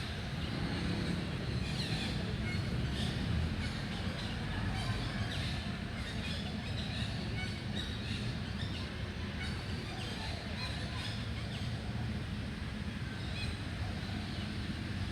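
Birds chirping in short scattered calls over a steady low rumble of traffic.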